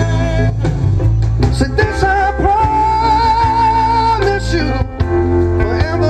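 Live band music with singing over a steady bass and guitar; near the middle a long note is held with a wavering vibrato.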